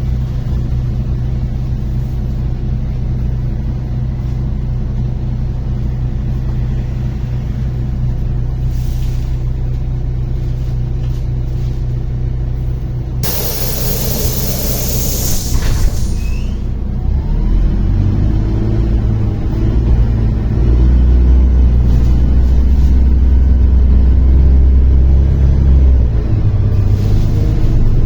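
MAZ-103 city bus's diesel engine running at idle, then a loud hiss of air from the bus's pneumatic system lasting about three seconds, about halfway through. The engine then pulls harder and louder as the bus moves off, heard from inside the cabin.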